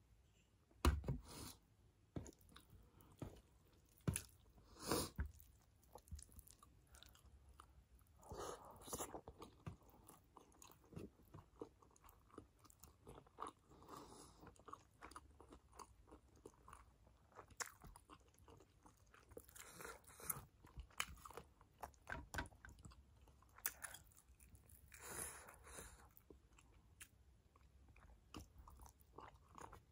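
Close-miked chewing and biting of steamed chicken momos: soft, wet, irregular mouth sounds, with a few louder sharp sounds in the first five seconds.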